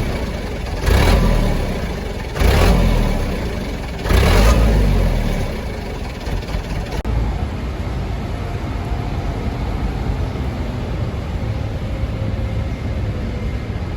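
Diesel truck engine revved in three sharp blips about a second and a half apart, then settling into a steady run.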